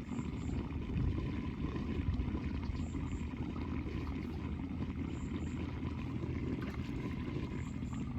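Floodwater rushing through a cleared drain grate, a steady churning rumble.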